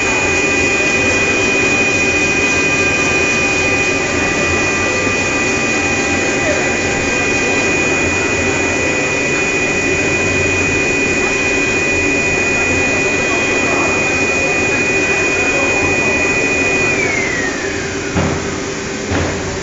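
Electric motor of a cardboard cutting machine running with a steady high whine. About 17 seconds in, the whine falls in pitch and the noise drops as the motor is switched off and spins down. A few knocks follow near the end.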